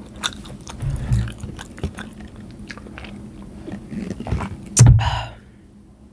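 Close-miked chewing of food: wet mouth clicks and smacks, with a louder low thump about one second in and the loudest one near five seconds in.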